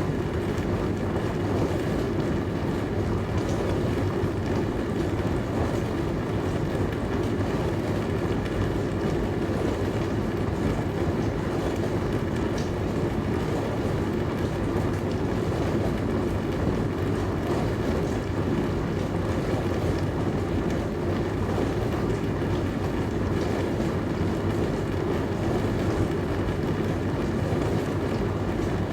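Dishwasher running mid-cycle: a steady rush of circulating, spraying water over a constant low hum, with no breaks.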